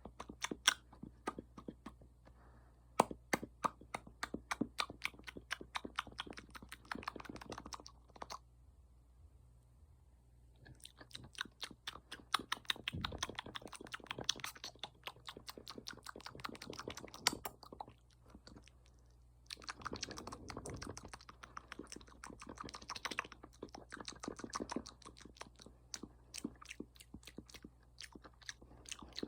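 ASMR mouth sounds: rapid wet clicks and smacks of lips and tongue close to the microphone, in dense runs that pause twice, about eight seconds in and again about eighteen seconds in.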